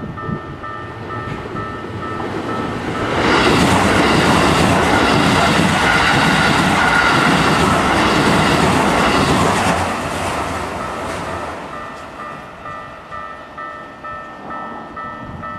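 A level crossing's warning bell rings in a steady repeating ding pattern while an electric commuter train passes close by; the train's running noise rises about three seconds in, stays loud for about seven seconds, then fades while the bell keeps ringing.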